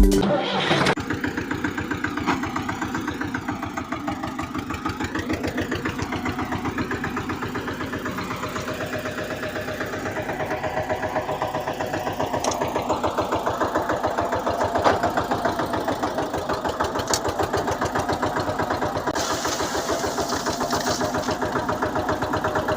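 Mini Eicher 242 tractor model running with a steady, fast-pulsing idling engine sound. A higher whine climbs in pitch through the middle.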